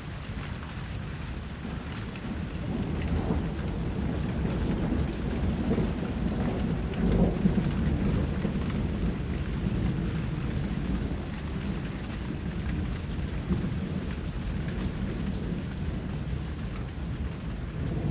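Steady, continuous rain, with a low rumble of thunder swelling and fading in the middle.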